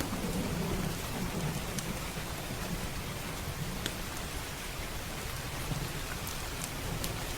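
Steady heavy rain with a low rolling rumble of distant thunder, strongest in the first half. A few sharp wood-fire crackles pop through it.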